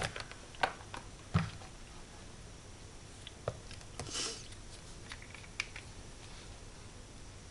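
Scattered light clicks and taps of small craft supplies being handled on a work table, with a brief soft rustle about four seconds in.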